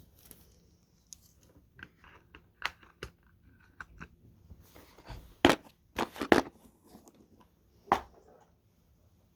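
Handling noise: scattered clicks and knocks of small objects being moved about on a desk, with the loudest knocks bunched between about five and a half and six and a half seconds in and one more near eight seconds.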